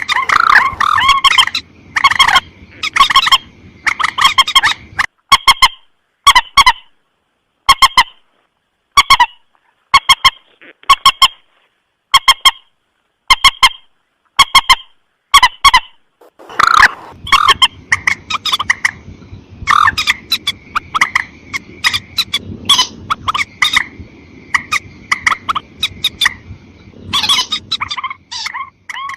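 Loud, repeated calls of a mandar sawah (a paddy-field rail) used as a lure call: series of short honking notes, crowded together at first, then single notes at even intervals through the middle, then crowded again near the end.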